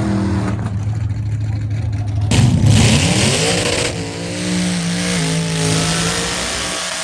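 Car engine holding steady revs, then revving up sharply about two seconds in with a sudden loud rush of noise, and staying at high revs.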